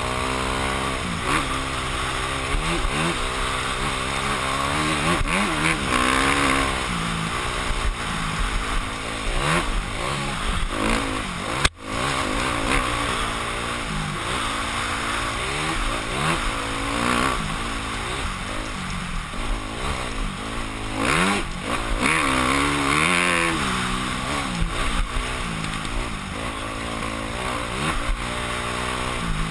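Yamaha YZ250F four-stroke single-cylinder dirt bike engine revving hard and falling off again and again as the rider works the throttle and gears on a rough trail. The sound cuts out for an instant about twelve seconds in.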